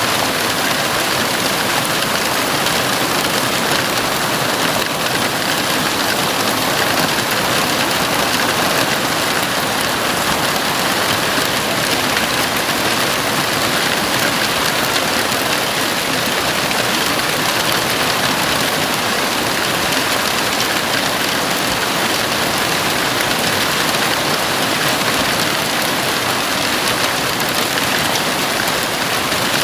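Heavy rain falling steadily on a house roof: an even, unbroken hiss of drops with no let-up and no thunder.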